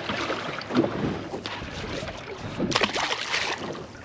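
Wind and water around a small open fishing boat, with wind buffeting the microphone and a few louder bursts of noise about a second in and again near the end.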